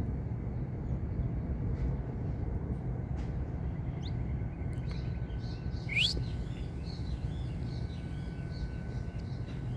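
Saffron finch calling: a few faint chips, then a loud rising whistle about six seconds in, followed by a quick run of short arched chirps, over a steady low rumble.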